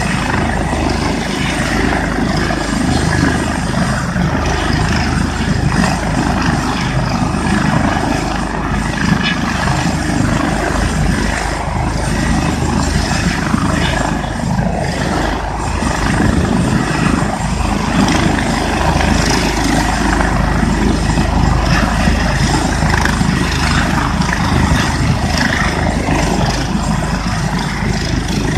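Air ambulance helicopter running steadily, its turbine engines whining under the chop and rush of the turning rotors, with wind buffeting the microphone.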